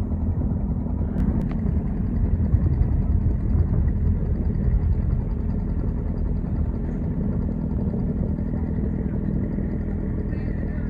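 Boat engine running steadily, a low even hum, with two faint clicks a little over a second in.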